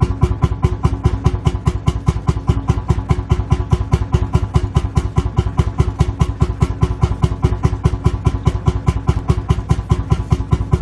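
Lanz Bulldog tractor's single-cylinder two-stroke hot-bulb engine idling, with an even, steady beat of about five firing thumps a second.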